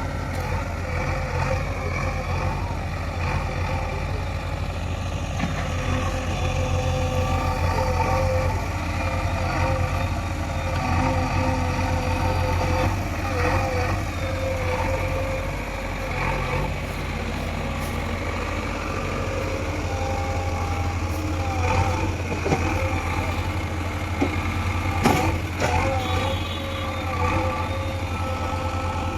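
Heavy diesel engine running steadily, with a few short knocks about three-quarters of the way in.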